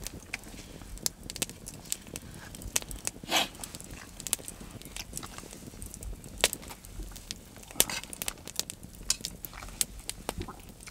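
Wood campfire crackling, with irregular sharp pops scattered through and a brief rasping noise about three and a half seconds in.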